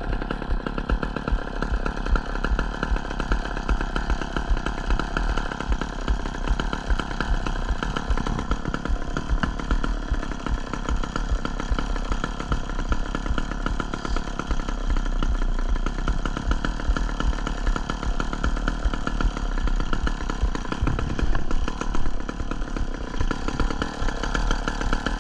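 Chainsaw engine running at a steady speed, without revving up or down.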